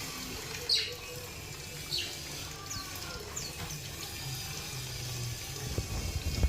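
Small parrots in an aviary giving short chirps that fall in pitch, a few times over a steady hiss, the loudest two near the start. Low knocks and thuds come near the end.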